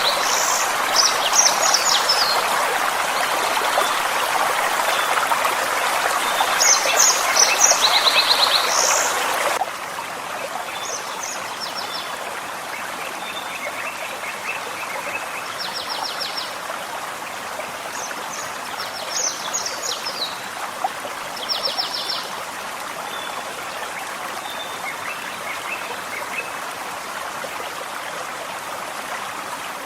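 Forest stream running steadily, with small songbirds giving short high chirps and quick trills on and off over it. About ten seconds in, the water sound drops suddenly to a softer level.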